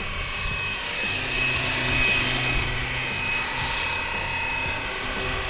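Fly Wing BO 105 RC scale helicopter in flight: the steady high whine of its electric motor and the hum of its spinning rotor, swelling a little as it manoeuvres.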